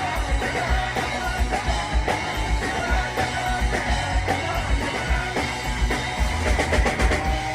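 Live punk rock band playing an instrumental passage: distorted electric guitars, bass and drums with a steady fast kick-drum beat and cymbal crashes.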